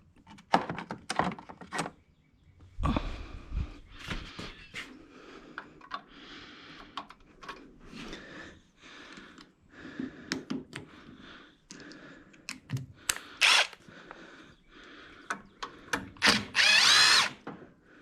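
Handheld power tool working on bolts, run in short bursts, the longest near the end for about a second with its motor pitch shifting, among clicks and knocks of metal tools and sockets.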